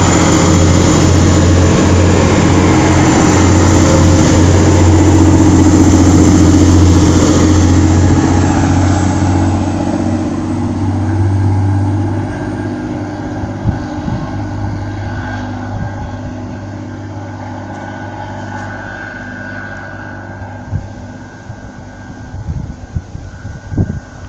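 Class 185 diesel multiple unit's engines running under power as it pulls out, a loud steady hum that fades away over the second half as the train leaves.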